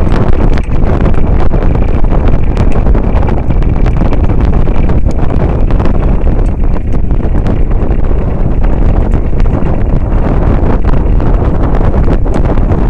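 Loud, steady wind buffeting the microphone aboard a moving boat, a dense low rumble with scattered short crackles.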